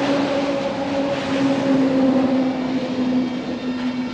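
A motor vehicle passing close by: a loud steady engine hum with road noise, its pitch slowly dropping as it goes past.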